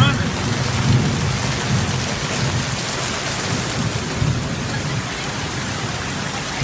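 Torrential rain pouring onto a street and pavement, a loud, steady, dense hiss of splashing water. A low rumble comes and goes underneath it.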